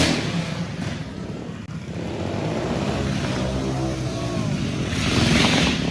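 Motorcycle engine running, its pitch rising and falling in the middle as it is revved or rides past, with a burst of rushing noise at the start.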